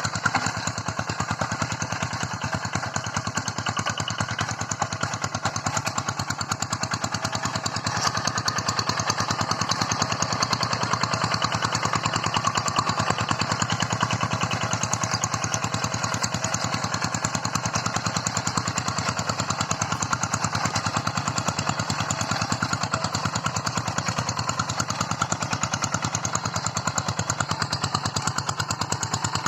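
Tractor engine running steadily under work, a fast even chugging that grows a little louder about eight seconds in.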